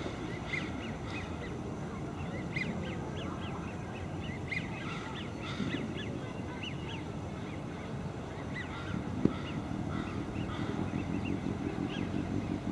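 Birds calling in many short, high notes over a steady low outdoor rumble, with one sharp click about nine seconds in.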